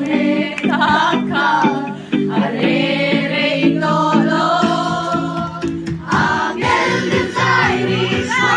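Music: several voices singing a song together over a steady instrumental backing.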